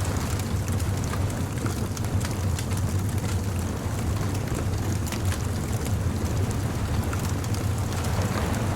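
Bonfire crackling with scattered small pops, over a steady low rumble.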